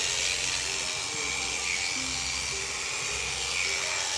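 Electric sheep-shearing handpiece running steadily as it cuts through the fleece, a constant high buzz, with music playing in the background.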